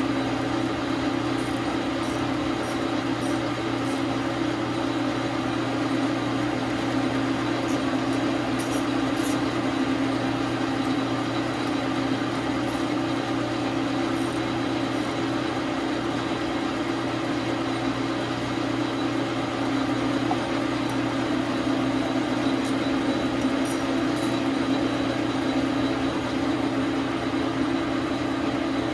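Dar Sin 12 x 37 manual lathe running at a steady speed: a continuous motor and gear hum, with a few faint ticks.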